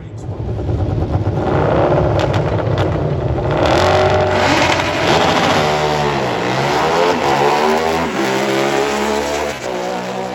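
Drag-racing motorcycle engine run hard down the strip. Its pitch climbs, drops sharply about six seconds in, then climbs again.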